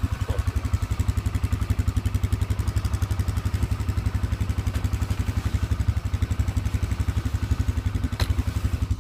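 ATV engine idling steadily with an even, rapid putter after a cold start in freezing weather. A single short click comes near the end.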